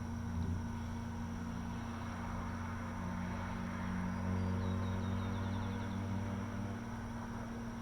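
Steady low mechanical hum from distant machinery, swelling slightly about halfway through. A brief run of faint high chirps comes in the middle.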